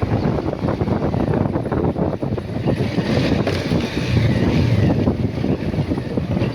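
Motorcycle running on the road at speed, its engine rumbling steadily under heavy wind buffeting on the microphone.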